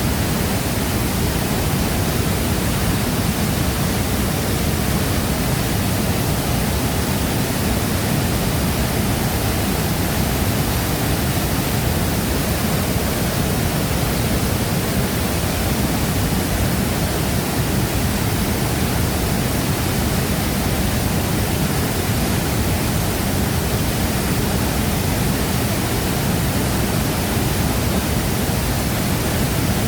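Waterfall pouring steadily: a continuous, even rush of falling water with no breaks or changes.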